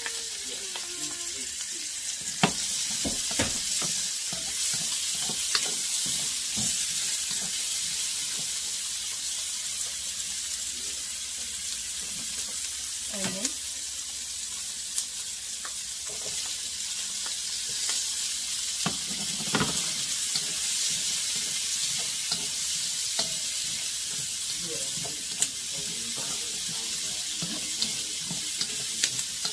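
Sliced sausage, onion and garlic frying in a wok with a steady sizzle, while a ladle stirs the pan and knocks against it now and then with sharp clicks.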